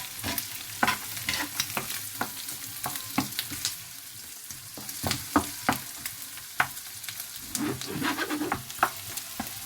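Carrots, onion and garlic sizzling in oil in a frying pan while a utensil stirs them, with frequent irregular scrapes and taps of the utensil against the pan.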